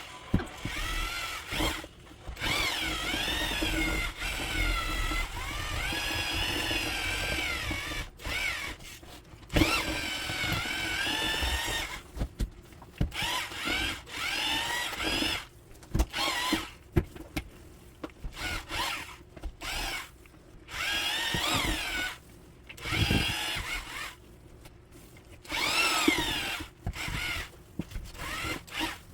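Electric drill turning a long mixing paddle through a large tub of thick homemade dog food. It runs in repeated stop-and-start bursts, its whine rising and falling in pitch as the trigger is squeezed and eased.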